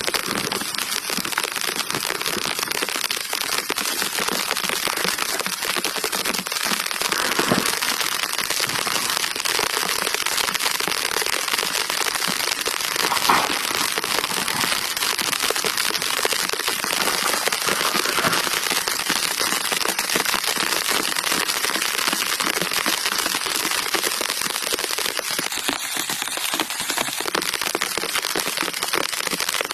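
Steady rain pattering, with dense crackling throughout and a couple of louder cracks, one about seven seconds in and one about thirteen.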